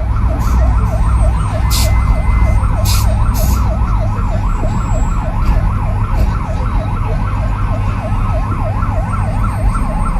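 A siren wailing in a fast yelp, rising and falling about four times a second, over a heavy low rumble.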